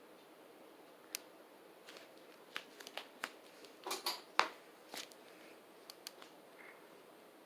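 A dozen or so light, irregular clicks and ticks over a faint steady hum, bunched together in the middle, with the sharpest one a little past the midpoint.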